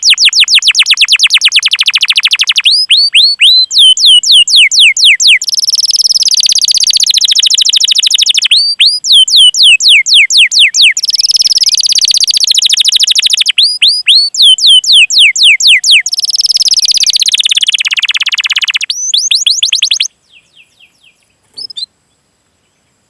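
Canary singing a loud, long song of fast rolling trills and series of high, downward-sweeping 'cuit cuit' notes in quick phrases. It stops about twenty seconds in, with a few faint notes after.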